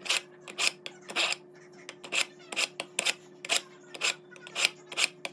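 A kitchen knife drawn again and again through a pull-through knife sharpener: short scraping strokes, two to three a second.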